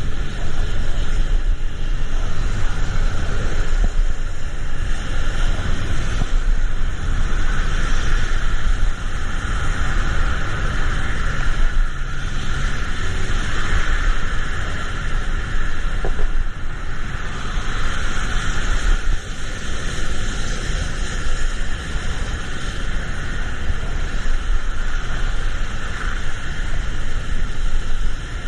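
Vehicle in traffic in the rain: a steady low rumble of engine and road noise under a continuous hiss of rain and wet road.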